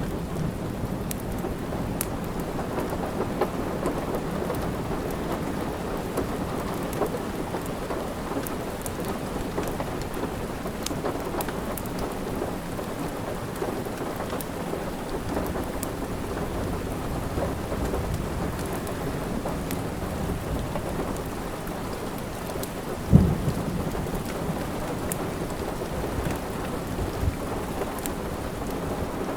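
Steady rain with the scattered snaps of a crackling log fire, and one louder, deeper pop about three-quarters of the way through.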